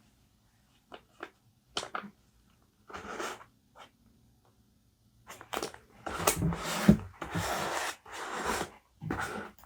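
Paper being handled for journaling: a few light taps and a short rustle, then about five seconds in a run of louder paper rustles and crinkles, each lasting about half a second.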